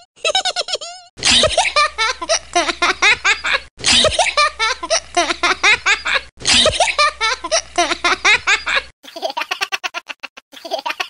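Laughter sound effects played back to back. A short laugh clip comes first, then the same burst of hearty laughter plays three times in a row, each time about two and a half seconds long. Near the end a different, higher, choppy laugh begins.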